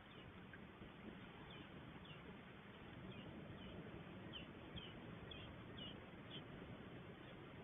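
Faint short bird chirps, a quick run of about six high notes between about four and six and a half seconds in, over a steady low background noise.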